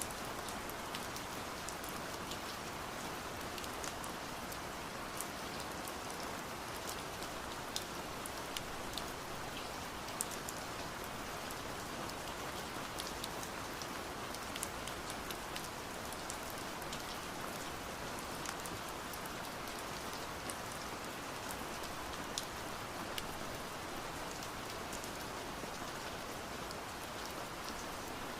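Steady rain, a constant even hiss with many scattered sharp taps of drops striking window glass.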